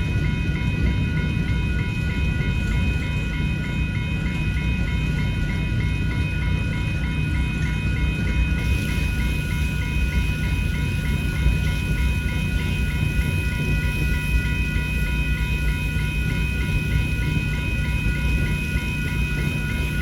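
Freight cars of a long manifest train rolling through a grade crossing with a steady low rumble and wheel clatter, while the crossing bells ring on in fast, even repeated strikes.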